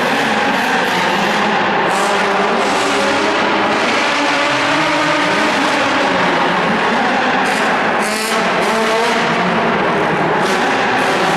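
Drift car engine revving hard, its pitch rising and falling continuously as the car is held in a slide. About 8 seconds in there is a brief rapid fluttering pulse.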